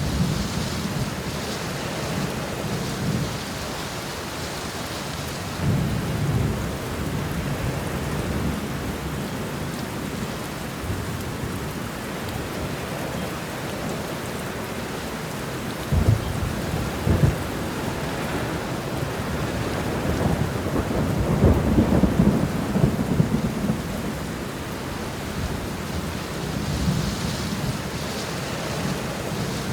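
Steady heavy rain with rolling thunder: low rumbles swell several times, with a sharper crack about 16 seconds in and the longest, loudest rumble a few seconds after 20 seconds.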